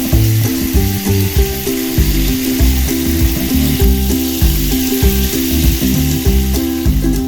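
A steady spraying hiss that stops abruptly near the end, over background music with a steady beat.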